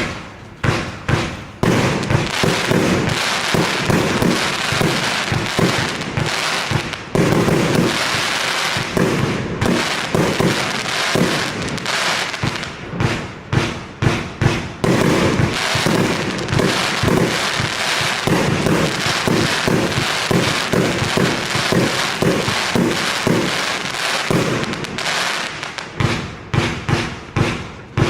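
"Snowstorm" consumer firework going off in a dense, rapid, continuous stream of crackling pops. The pops are more spaced out at the start and again near the end.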